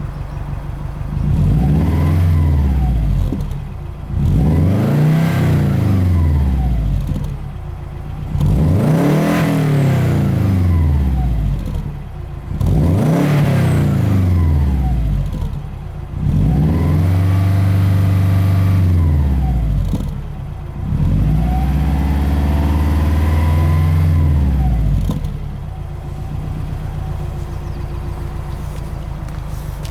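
Subaru Forester 2.5 XT's turbocharged flat-four through a 2.5-inch SuperSprint aftermarket exhaust, revved six times and dropping back to a steady idle between revs. The last two revs are held high for a few seconds before falling.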